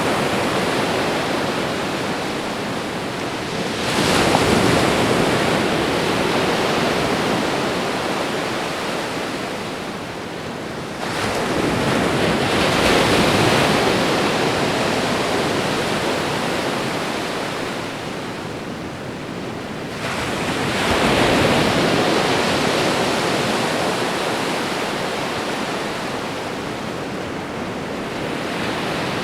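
Ocean waves breaking on a shore. Three waves surge in sharply, about 4, 11 and 21 seconds in, each washing out and fading slowly over the following seconds, over a constant background of surf.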